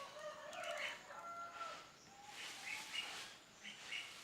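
A bird calling with a series of short chirps and squawks, some of them drawn-out gliding notes.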